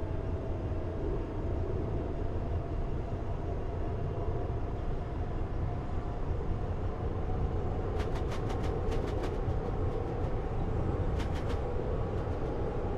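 Train running along the line: a steady low rumble with a faint steady whine, and two quick runs of light, evenly spaced clicks, about eight seconds in and again near the end.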